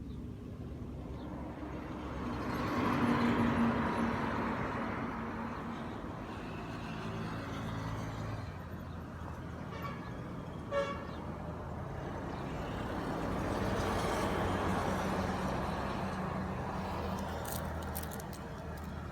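Motor vehicles passing on a road, two of them rising and falling in turn, with a brief horn toot about eleven seconds in.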